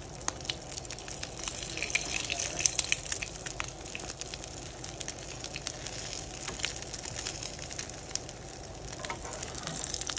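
Oil sizzling in a frying pan around a folded omelette, a steady hiss with many sharp crackling pops scattered through it.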